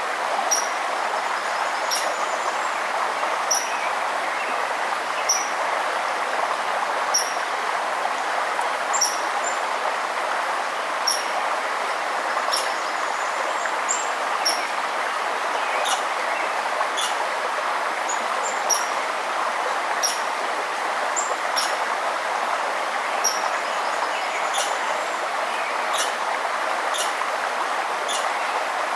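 Running water of a forest river or stream, a steady rushing, with a small bird giving short, high chirps every second or two.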